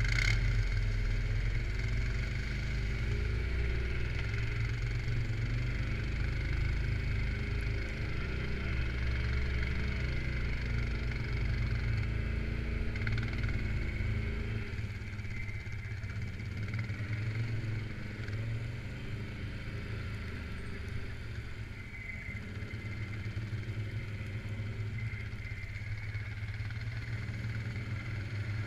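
Quad bike (ATV) engine running under way, its pitch rising and falling with the throttle. The deepest rumble eases off about halfway through.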